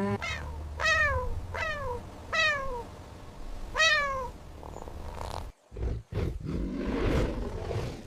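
Domestic cat meowing: four short meows, each falling in pitch, in the first four seconds, followed by a rougher, noisier sound toward the end.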